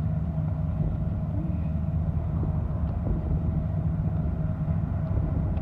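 A motor vehicle engine running steadily: a continuous low rumble with a constant hum.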